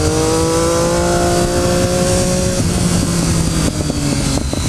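Motorcycle engine pulling hard through a gear, its note slowly rising, then dropping off the throttle about two and a half seconds in. A few quick clicks near the end, before the engine note picks up again, over steady wind rush.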